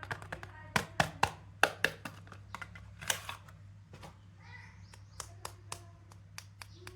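Soap packaging being handled and unwrapped by hand. A run of sharp taps and clicks is loudest in the first two seconds, a brief crinkle of wrapper comes about three seconds in, and lighter taps follow, over a steady low hum.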